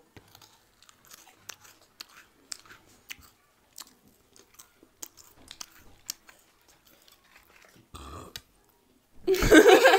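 Close-miked chewing with small crunches and wet mouth clicks from people eating momo dumplings and fried sha phaley. Near the end comes a loud burp.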